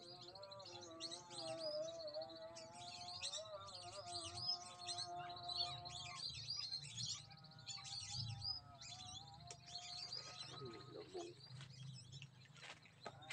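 Many short, high bird chirps and whistles, calling over and over. Under them a distant voice sings a long, wavering melody of held notes that fades out about ten seconds in.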